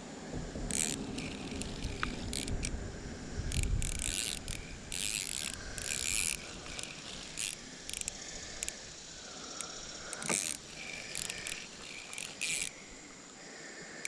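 Fishing reel being cranked in short, stop-start bursts of rasping whirr while a hooked bluegill is reeled in, with some low rumble of handling in the first few seconds.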